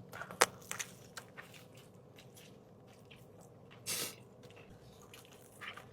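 Close-up eating sounds of a person chewing a sandwich: soft, wet mouth clicks and squishes, with one short, louder bite about four seconds in.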